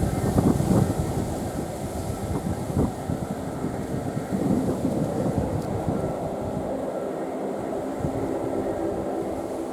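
Turboprop engines of a Bombardier Dash 8 Q400 running with a steady multi-tone drone, with gusts of wind buffeting the microphone in about the first second.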